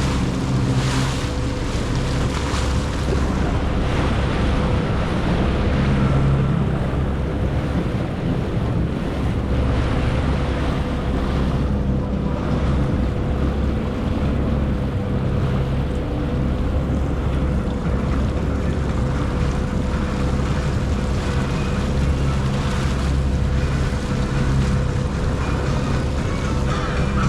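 Jet ski engine running steadily at speed with a constant whine, under the rush of water spray and wind buffeting the microphone.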